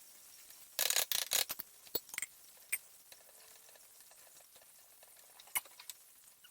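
Light clicks and rattles of small parts and tools being handled: a quick cluster about a second in, then a few scattered clicks.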